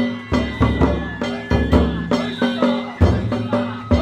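Danjiri festival music (narimono): taiko drums beaten in a fast, steady rhythm with ringing metal hand gongs.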